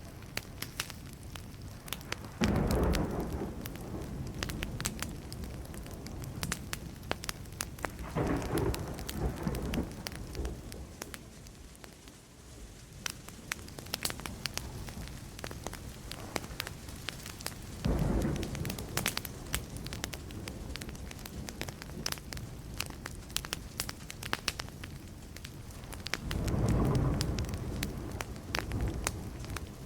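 Burning wood crackling with many sharp pops throughout, while distant thunder rumbles four times, each roll lasting a second or two.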